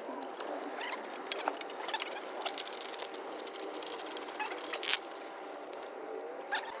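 Small metal parts and hand tools being handled: light clicks, rattles and scrapes, with a short run of rapid clicking about four seconds in.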